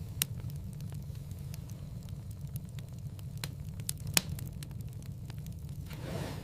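Wood fire in a fireplace crackling: a steady low rumble of flame with scattered sharp pops, the loudest about four seconds in, and a soft whoosh swelling near the end.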